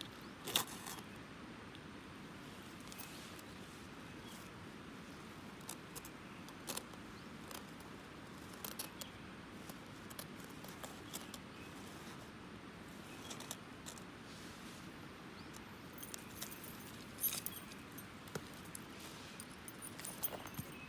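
Flint and steel (fire striker) struck against each other in irregular sharp metallic clicks, now single and now in short runs of several.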